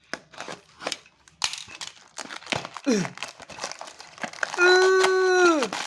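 Packaging crinkling and tearing as a box is opened by hand, in quick irregular crackles. About four and a half seconds in, a voice holds one long sung-out note that drops away at the end.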